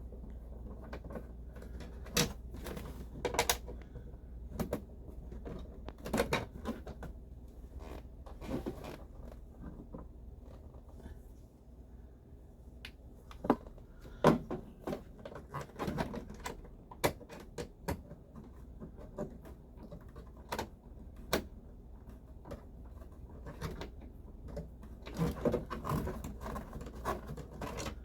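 Irregular clicks, knocks and rattles of hand tools and plastic dash parts being worked on while the backup camera speaker is being taken out of the dash, with a low steady hum underneath.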